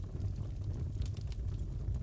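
Fireplace crackling: a steady low rumble of burning wood with scattered faint pops and snaps.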